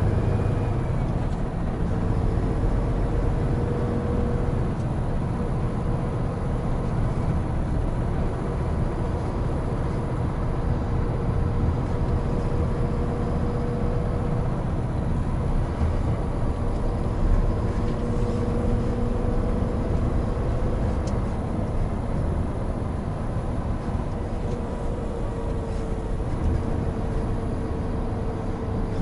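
Hino Profia heavy truck driving along: a steady diesel engine drone mixed with road and tyre noise, with a faint even hum holding one pitch throughout.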